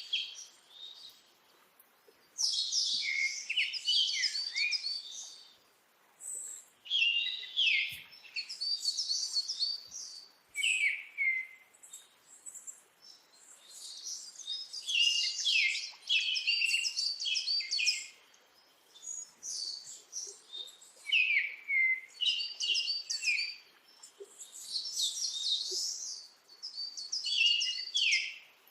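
Songbird singing in repeated phrases of quick, high chirps and trills, each phrase a second or three long, separated by short pauses.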